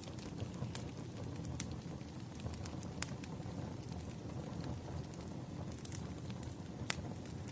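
Wood fire burning: a low steady rumble of flames with scattered sharp crackles and pops from the burning logs. The loudest pops come about a second and a half in, at three seconds and near the end.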